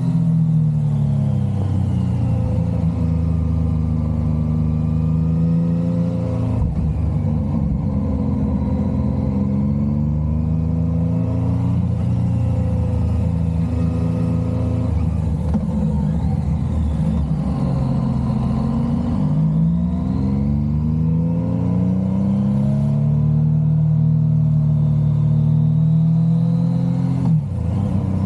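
Motorcycle engine running under load while ridden, its pitch repeatedly falling and rising as it revs up and down through the gears, with a brief break in the sound shortly before the end.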